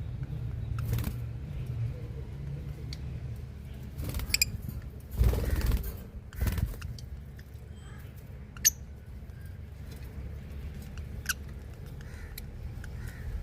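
Small birds giving a few short, high chirps, spaced out over several seconds, with scattered light clicks over a low steady rumble.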